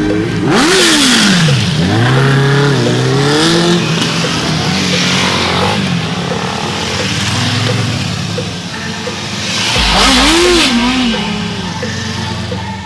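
Superbikes accelerating and passing, engine pitch sweeping up and down, with loud swells about a second in and again about ten seconds in.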